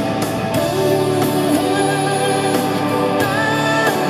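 Live band music in a passage between sung lines, with steady sustained notes.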